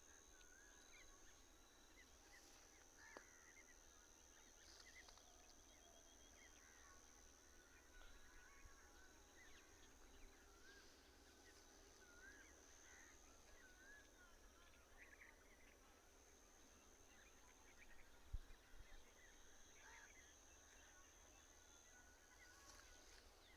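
Faint birdsong: many short chirps from several small birds, over a steady faint high-pitched whine. A single low thump about eighteen seconds in.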